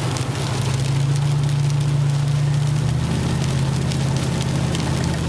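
Pickup truck engine running under load, heard from inside the cab, with steady rain and scattered drops pattering on the vehicle. The engine note firms up about a second in and shifts again near three seconds.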